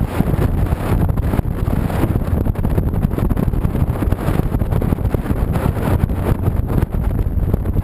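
Wind rushing over the action camera's microphone on a moving 2007 Honda VTX 1300C motorcycle, a steady loud rush over the low rumble of its V-twin engine at road speed.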